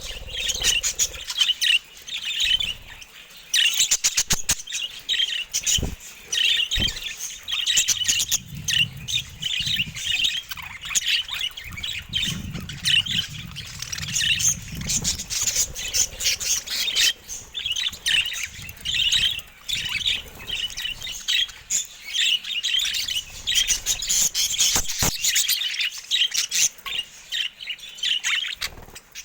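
Budgerigars chattering and warbling continuously, with rapid chirps and squawks, and a few sharp clicks or taps now and then.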